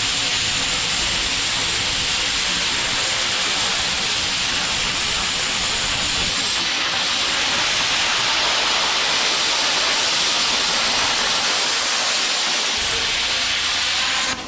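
Welder laying a long continuous bead on the steel hay-rake hitch: a steady, loud hissing sizzle that cuts off abruptly at the very end.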